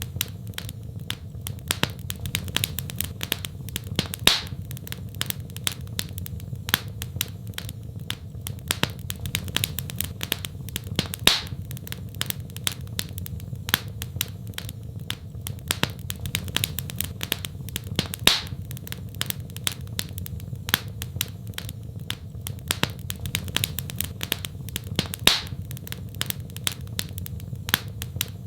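Wood fire crackling: a dense run of sharp snaps and pops over a steady low rumble, with a louder pop about every seven seconds.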